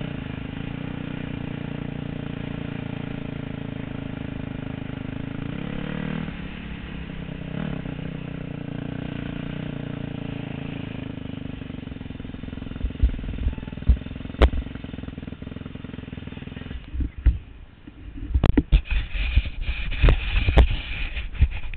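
Motocross motorcycle engines running steadily, with a couple of brief rev sweeps. For the last few seconds the engines drop away and a series of irregular dull thumps hits the microphone.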